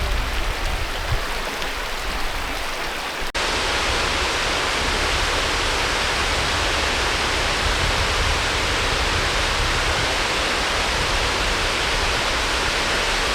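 Steady rush of a waterfall. About three seconds in, it cuts abruptly to a louder, brighter rush that holds steady.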